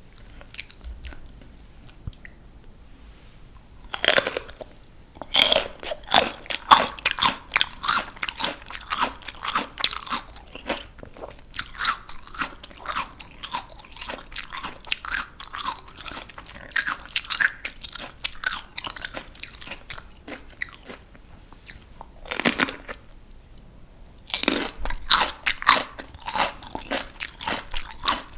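Raw crunchy vegetables bitten and chewed: a crisp bite about four seconds in, then a long run of rapid crunching chews, another bite past twenty seconds and more crunching near the end.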